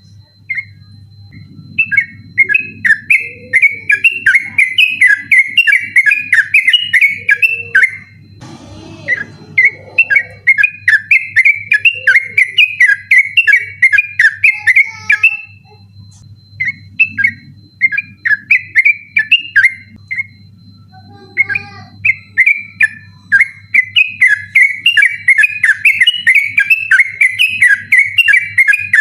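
Yellow-vented bulbul (trucukan) singing its 'ropel' song: long, insistent runs of rapid chattering notes, broken by a few short pauses.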